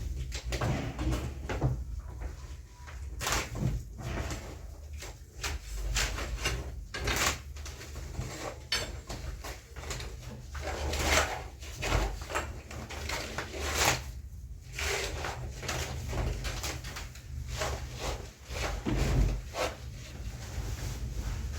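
Irregular clicks, knocks and rustling of household things being handled and set in place.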